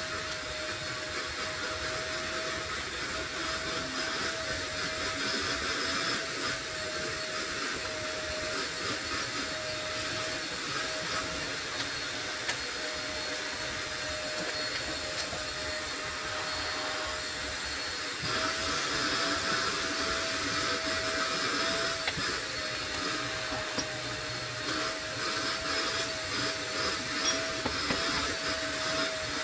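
A small motor running steadily with a constant hum, under scattered light clicks and knocks; it gets somewhat louder a little over halfway through.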